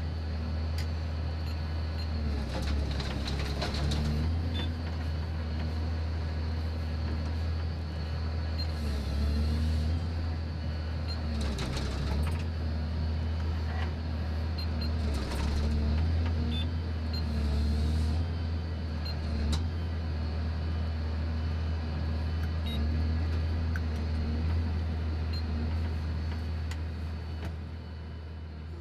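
A large engine running steadily with a deep, even hum, with a few scattered clicks and knocks over it.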